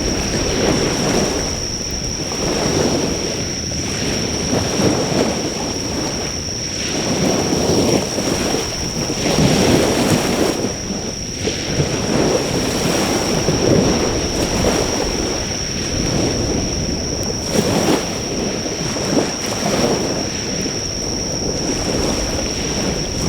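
Waves breaking and washing on a shore, swelling and easing every few seconds, with a steady high-pitched insect trill throughout. The crackle of the driftwood fire is faint under the surf.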